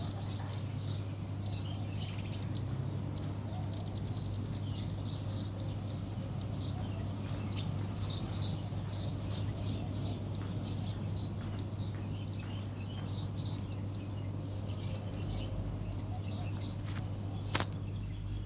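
Many small birds chirping in quick, overlapping short calls, over a steady low hum, with a single sharp click near the end.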